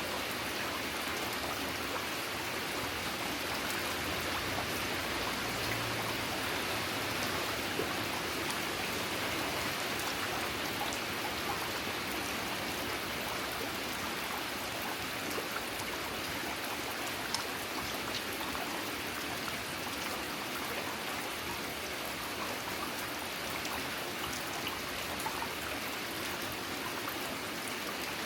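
Steady rain falling, an even hiss with a few scattered louder drips.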